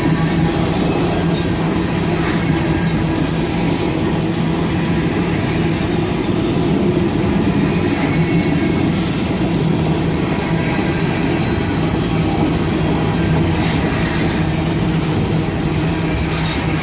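Freight train boxcars rolling past: a steady, loud noise of steel wheels running on the rails, with a constant low hum underneath.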